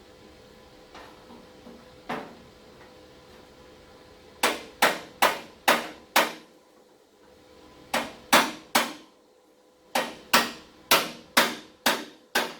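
Hammer tapping on a tack-welded sheet-metal fender patch panel to nudge its corner into line without breaking the tack: a couple of light taps, then three runs of sharp, ringing strikes of about five, three and six taps, two or three a second.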